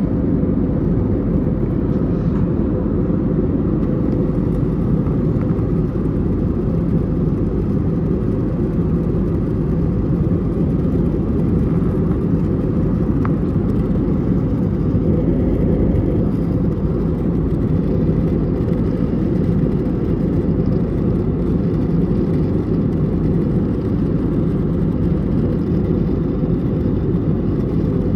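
Steady, deep cabin roar inside an Airbus A320neo in flight: engine and airflow noise heard from a window seat, even throughout.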